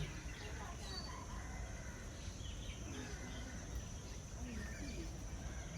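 Outdoor bird-park background: faint, scattered chirps of several birds over a steady high insect drone, with a low murmur of distant voices.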